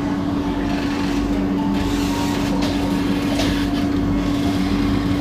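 Singapore MRT train running on the rails: a steady rumble with a constant humming tone and a few brief rattles in the middle.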